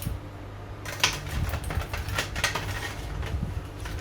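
Kitchen utensils clinking and knocking against a cooking pot as crab meat is added to a simmering curry: a handful of sharp knocks over a low steady hum.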